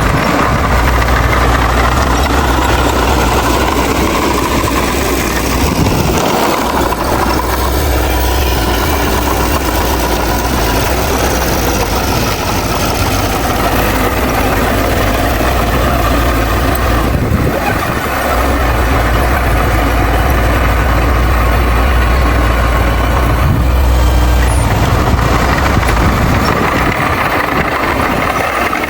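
Heavy diesel engine of earthmoving machinery running loudly and steadily. Its deep low note drops away briefly a few times as the load or throttle changes.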